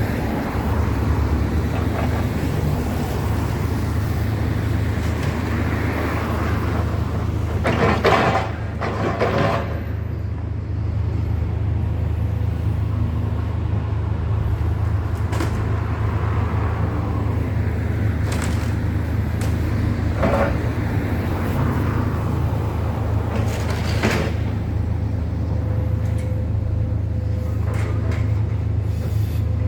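A heavy engine running steadily with a low hum, with a few sharp knocks and clanks every few seconds.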